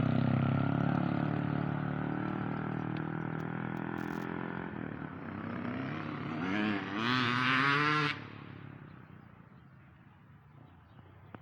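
Yamaha motorcycle engine running and slowly fading as the bike moves off, then revving up and down in several throttle blips from about five seconds in. It cuts off suddenly about eight seconds in, leaving only faint background.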